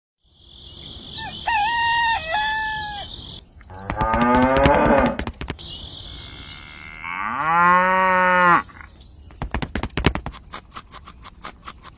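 Animal calls, the longest one rising and then held for about a second and a half around seven seconds in, followed by a quick run of clicks and knocks.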